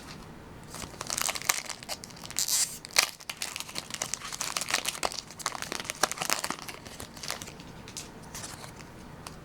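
Foil Pokémon booster pack wrapper being torn open and crinkled. The crackling starts about a second in, is heaviest over the next couple of seconds, and thins out near the end.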